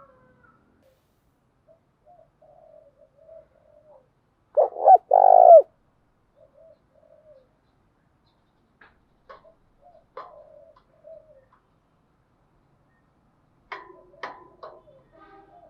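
Spotted dove cooing: soft, low coos with one loud two-part coo about five seconds in. A few sharp clicks sound near the end.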